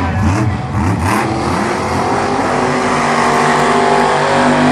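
Monster truck engine revving in an arena, its pitch swinging up and down at first and then climbing steadily over the last couple of seconds.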